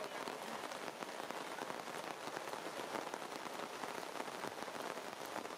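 Steady rain falling on forest leaves and branches, with many separate drop hits.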